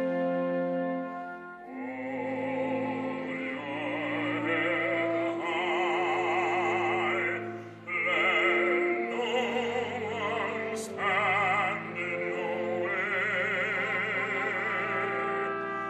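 Operatic singing with wide vibrato over orchestral accompaniment. It opens on a held instrumental chord, and the voice comes in about two seconds in.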